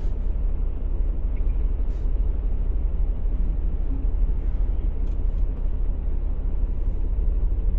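Semi-truck's diesel engine running, a steady low rumble heard inside the cab.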